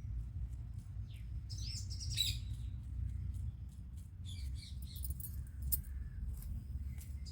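Small birds chirping a few times in short high calls, over a low steady rumble.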